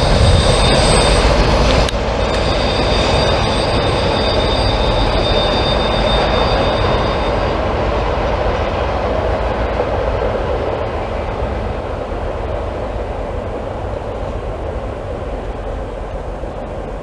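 Freight train cars rolling past on the rails, with a steady high-pitched wheel squeal over the first several seconds that then dies away while the rolling noise slowly fades.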